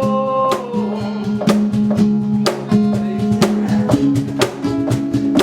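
Live band playing an instrumental stretch: a drum kit keeps a steady beat of about two hits a second under bass and guitar chords, after a held sung note that ends about half a second in.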